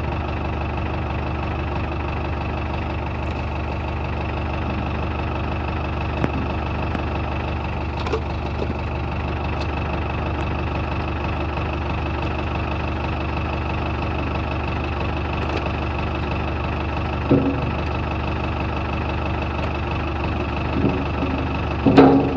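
Backhoe engine running steadily at low revs, with a few short clunks now and then, the loudest cluster near the end.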